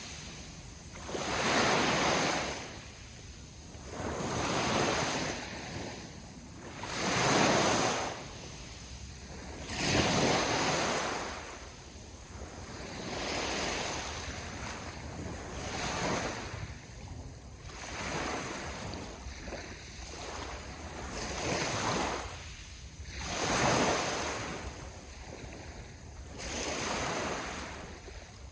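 Sea waves washing onto the shore, each one swelling and falling away, about every two to three seconds. The surges are louder in the first half.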